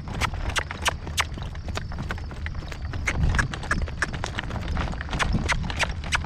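A horse's hooves clip-clopping in a steady rhythm, about three strikes a second, over a steady low rumble.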